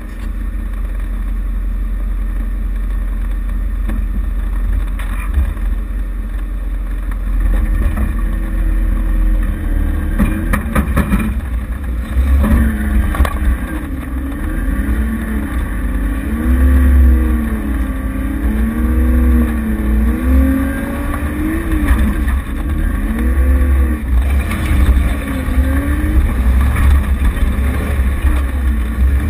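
Off-road vehicle's engine, heard from its bonnet, running under a heavy low rumble and, from a little under halfway in, revving up and down again and again as it crawls over rocks.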